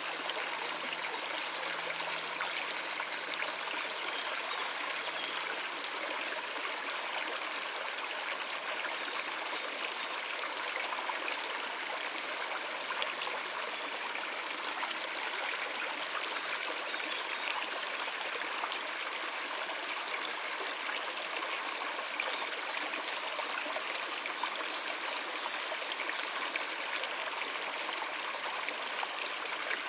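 Water running over rocks in a stream: a steady babble and trickle that never lets up.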